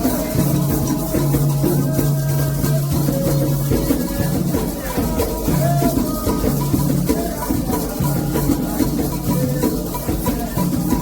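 Candomblé ritual music: atabaque hand drums played in a fast, dense rhythm with a shaken rattle, and voices singing a chant over them.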